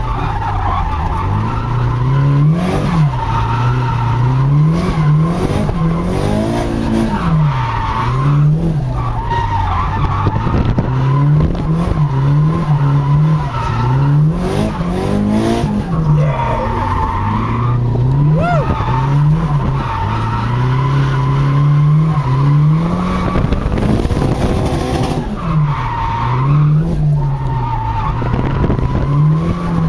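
Drift car engine revving up and down over and over while the tyres squeal in long stretches as the car slides, heard from on board.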